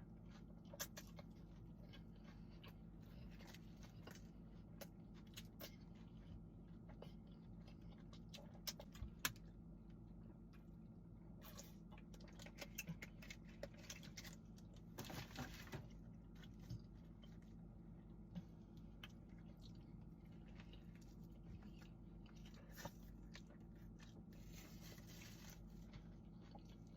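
A person chewing food with faint, irregular mouth clicks and soft crunches, over a steady low hum.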